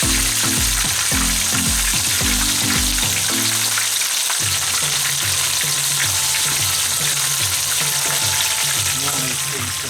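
Oysters sizzling steadily as they fry in hot oil. Background music with a low, stepping bass line runs underneath and changes its pattern about four seconds in.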